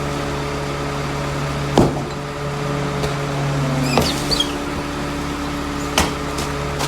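Rear-loader garbage truck running with a steady hum, broken by three sharp metallic clunks about two seconds apart and a brief high squeak after the second.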